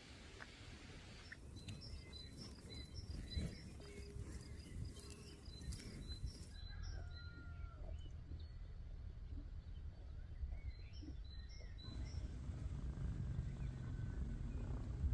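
Small birds chirping repeatedly over an outdoor background rumble, with a quick run of chirps in the first half and scattered calls later.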